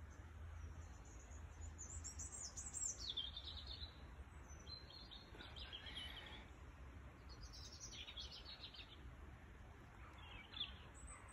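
Small songbird singing in short, high chirping phrases, about four of them a couple of seconds apart, faint over a steady low rumble.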